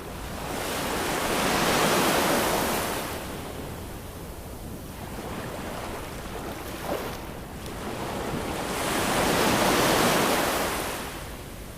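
Ocean waves washing onto a shore, two waves in turn: one swells and breaks about two seconds in and ebbs away, and a second builds and breaks near the end.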